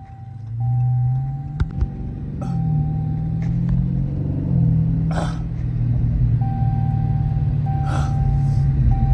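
Dodge Charger Scat Pack's 6.4-litre HEMI V8 heard from inside the cabin on the move: a deep engine and exhaust rumble that swells about half a second in and steps up in pitch a couple of times as the car pulls.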